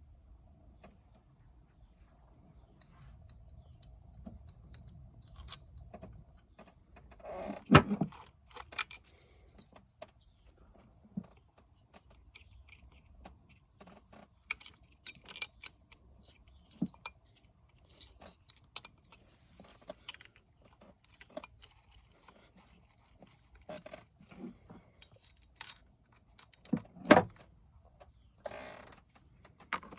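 Hand tools and engine parts clinking and clicking irregularly during an ignition-coil swap on a car engine, with two louder knocks, one about eight seconds in and one near the end.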